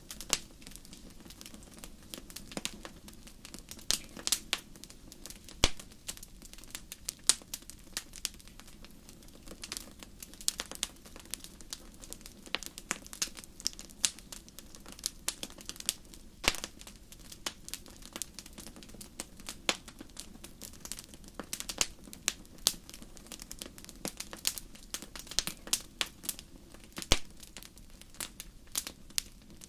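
Wood fire crackling in a fireplace: irregular sharp pops and snaps, several a second, over a low steady rush of burning.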